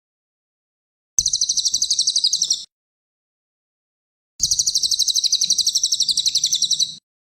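Cililin songbird singing: two bursts of rapid, evenly repeated high notes, about a dozen a second, the first about a second and a half long and the second about two and a half seconds, starting about a second in.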